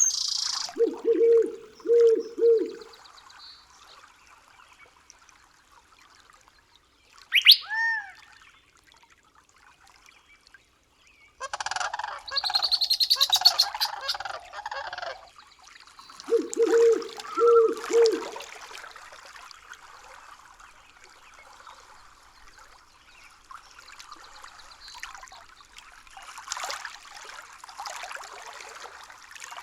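Wild birds calling over faint running water. There are two groups of three short low notes, one about a second in and another a little past the middle. A single whistled call sweeps up and falls away near the quarter mark, and a loud harsh rattling call lasts a few seconds around the middle.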